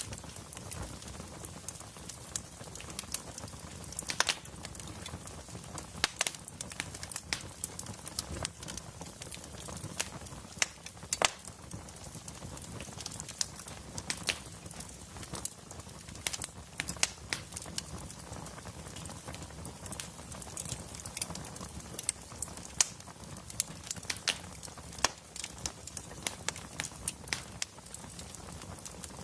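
Wood fire in a fireplace crackling, with frequent sharp irregular pops over a steady low rumble and hiss.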